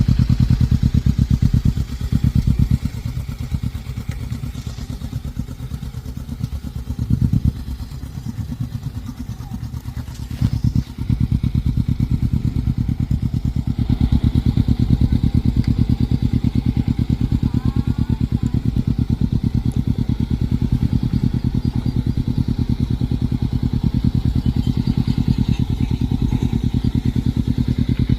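Kawasaki Ninja motorcycle engine running at low revs, its exhaust pulsing evenly. The level swells briefly a few times in the first ten seconds, then from about eleven seconds in it runs louder and steadier.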